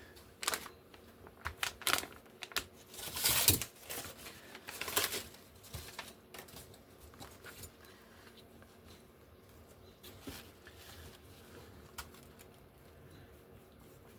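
Paper and craft materials handled on a tabletop: a cluster of sharp clicks, taps and short rustles in the first six seconds, then only occasional faint ticks.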